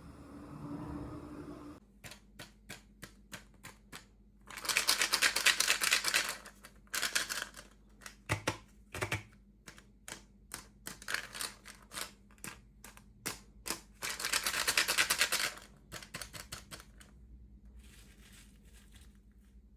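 Small plastic toy pieces and packaging being handled during an unboxing: a run of light clicks and taps, about three a second at first, broken twice by stretches of scratchy crinkling noise about two seconds long.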